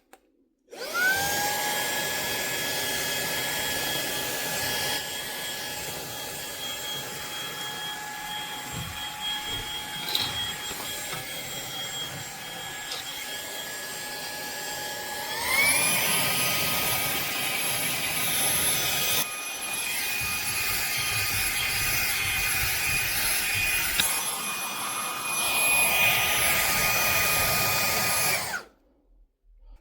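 Fanttik Slim V8 Apex cordless handheld vacuum running: it switches on about a second in with a steady motor whine and airflow hiss, and the whine steps up to a higher pitch about halfway through. It switches off shortly before the end.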